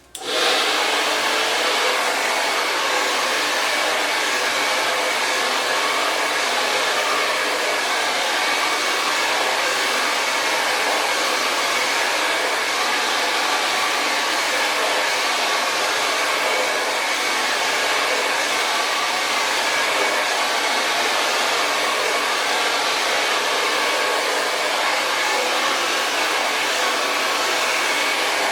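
Hair dryer switched on at the start and running steadily while blow-drying hair: an even rush of air with a faint whine.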